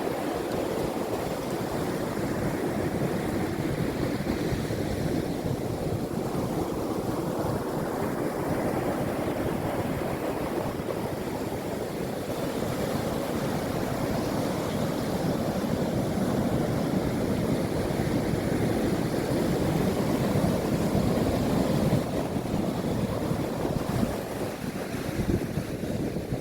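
Sea waves breaking and washing ashore: a continuous rush of surf that swells and eases slowly, with wind buffeting the microphone.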